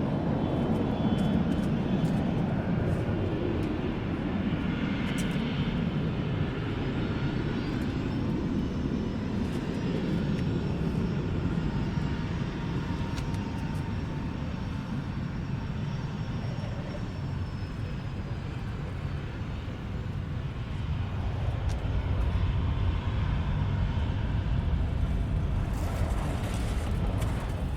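Jet airliner engines, a Southwest Boeing 737 landing. A loud passing roar falls in pitch over the first several seconds, with a faint high whine, and a low rumble swells again in the last several seconds.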